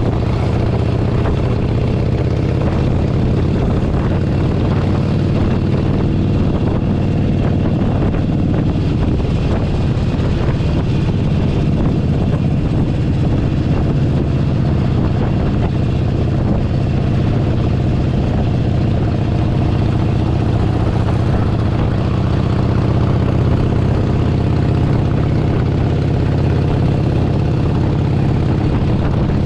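Harley-Davidson Forty-Eight Sportster's 1200 cc air-cooled V-twin running steadily at cruising speed, heard from the saddle with road and wind noise.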